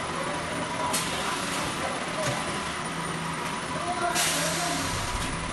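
High-frequency plastic welding machine running: a steady mechanical hum with a faint whine, broken by sharp hissing bursts of air, a short one about a second in and a longer one about four seconds in, as its pneumatic press cycles.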